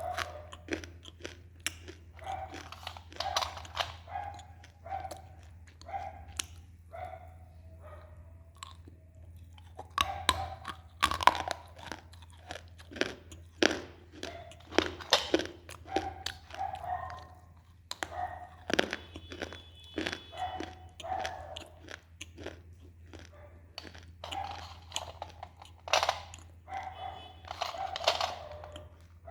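Close-up crunching and chewing of dry baked clay in the mouth: irregular sharp crunches between softer grinding chews, with a steady low electrical hum underneath.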